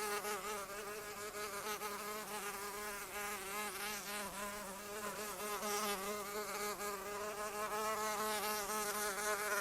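A flying insect buzzing continuously in flight, its wingbeat pitch wavering up and down as it moves.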